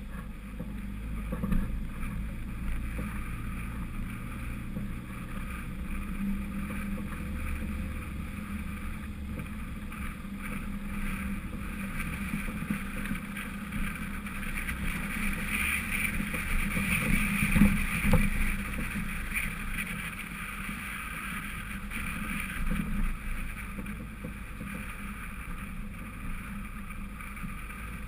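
Lifted 1999 Honda CR-V driving off-road: steady engine and drivetrain rumble with road noise and small knocks from the body and suspension over rough ground, and one louder knock about two-thirds of the way through.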